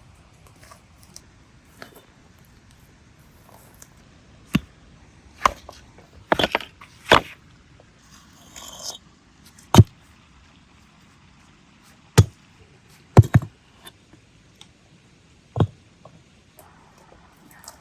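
Sharp, separate knocks and clatters of hard objects being handled, about ten of them spaced unevenly, some in quick pairs, with a brief scrape near the middle.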